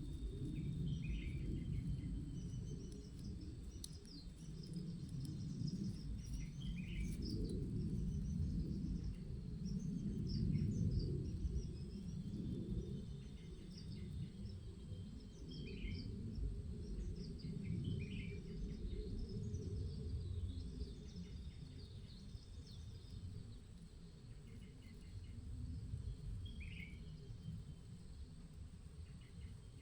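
Low, gusting wind rumble on the microphone, swelling and fading, with scattered short bird chirps over it throughout.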